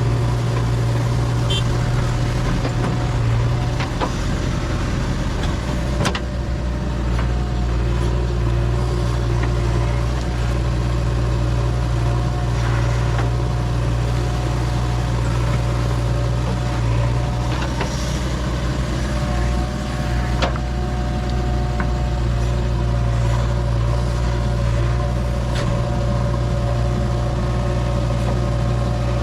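Diesel engine of a JCB 3DX backhoe loader running steadily at working speed, with a few sharp knocks, one about six seconds in and another about twenty seconds in.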